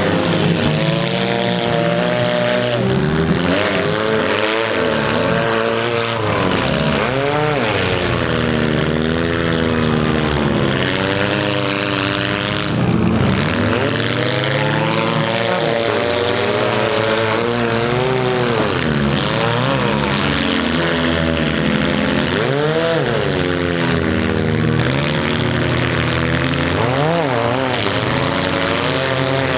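Several four-cylinder demolition derby cars' engines revving up and down together, their pitches rising and falling every second or two as the drivers accelerate and back off.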